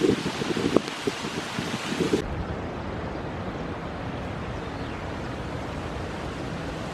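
Strong wind buffeting the microphone in uneven gusts. About two seconds in, the sound cuts abruptly to a steadier, duller rushing noise.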